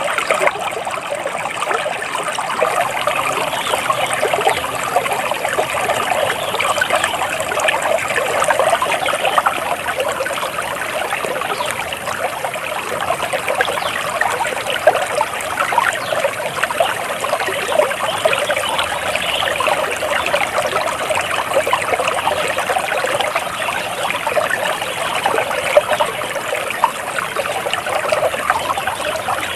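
Water trickling and splashing steadily, as of a small stream running over stones.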